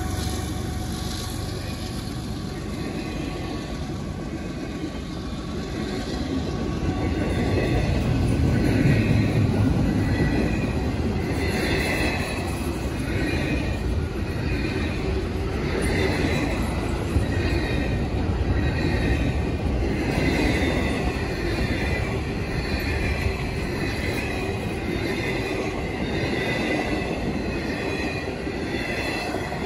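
Double-stack intermodal freight cars of a CSX train rolling past close by: a steady rumble of steel wheels on rail, with a high, wavering wheel squeal that swells and fades every few seconds.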